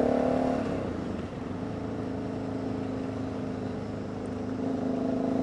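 Motorcycle engine running under way, with wind noise. Its pitch and level drop about a second in as it eases off, hold steady at lower revs, then climb again near the end.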